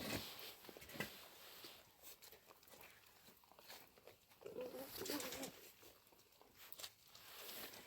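Goats in a small hut: light scattered taps and shuffling, with a short wavering bleat about five seconds in.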